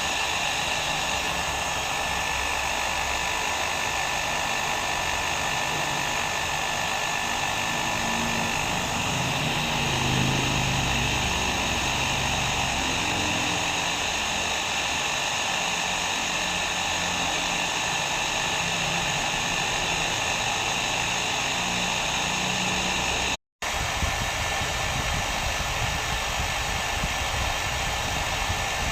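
Hair dryer running steadily: an even rushing blow with a constant whine from the motor and fan. The sound cuts out completely for a split second about two-thirds of the way through, then resumes.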